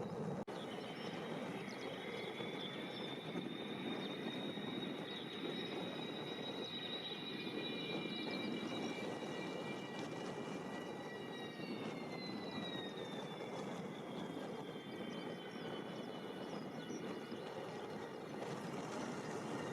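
Yakovlev Yak-40's three Progress AI-25 turbofan engines, a steady jet roar with a high whine on top, as the aircraft moves past. About two-thirds of the way through, the whine drops in pitch as the jet goes by.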